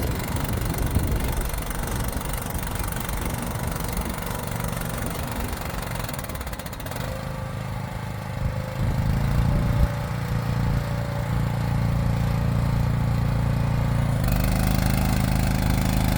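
An engine running steadily. Its note shifts about seven seconds in and settles into a stronger, even hum about fourteen seconds in.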